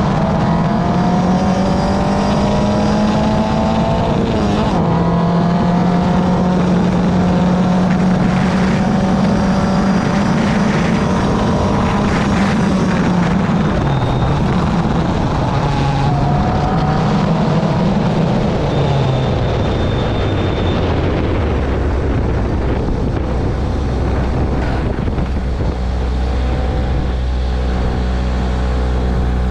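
Car engine running under way, its note shifting in pitch with the revs, then settling to a lower, steady note about three quarters of the way through as the revs drop.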